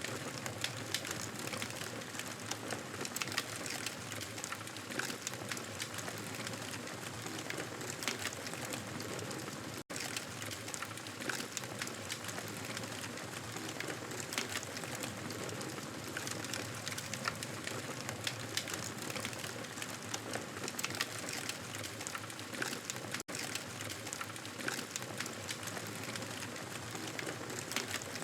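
Campfire burning with steady crackling and many small sharp pops. It drops out for an instant twice.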